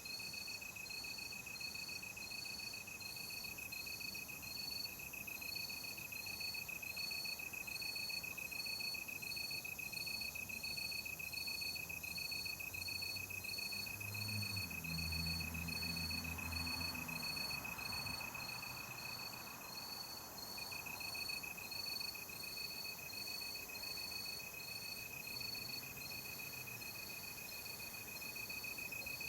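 Night insects, crickets, chirping in a forest ambience: a steady high trill with a regular pulsing chirp above it, nearly two chirps a second. A faint low hum comes in around the middle.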